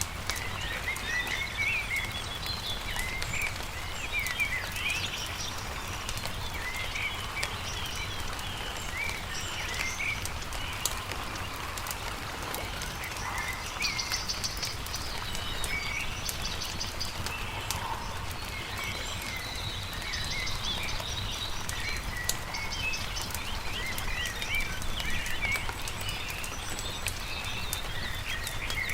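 Small birds chirping and warbling throughout, with a fast buzzy trill about halfway through, over the scattered pops and crackles of a wood campfire and a steady low rumble.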